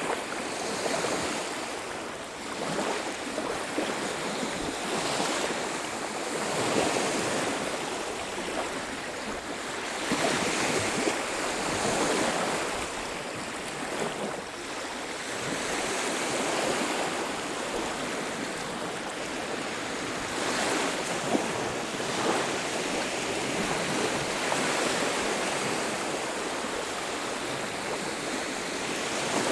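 Sea waves breaking and washing on a beach, the surf swelling and easing every few seconds.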